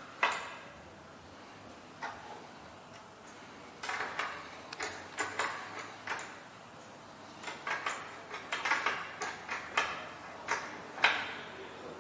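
Irregular clicks and light knocks of small hard parts and hand tools being handled, in loose clusters of several quick taps.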